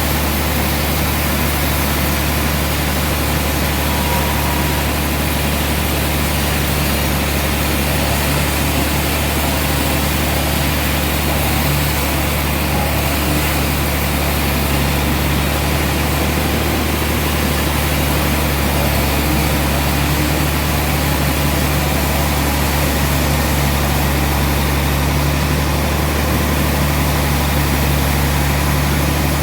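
Sawmill machinery running steadily: an even, low mechanical hum that holds the same pitch throughout.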